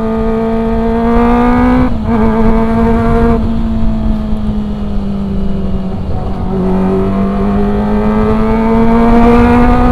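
Kawasaki ZX-25R's high-revving four-cylinder engine pulling under acceleration while riding, its pitch climbing, with a short break about two seconds in. The throttle eases off around three and a half seconds, the engine note drops and holds lower, then climbs steadily again from about six and a half seconds, over a low rumble of wind and road.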